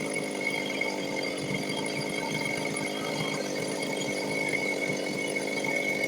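Stihl two-stroke chainsaw idling steadily after being throttled down, with a thin high whine.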